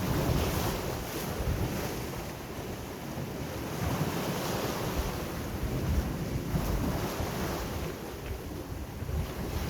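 Sea waves washing ashore, a steady rush that swells and eases, with wind buffeting the microphone in low rumbling gusts.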